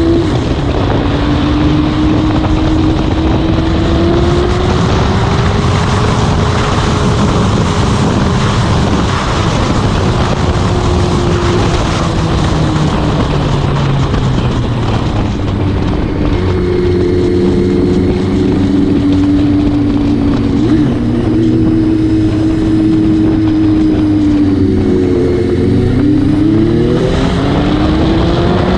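Motorcycle engine running under way, its note drifting slowly up and down with speed and climbing steeply near the end as it accelerates, over a heavy rush of wind on the microphone.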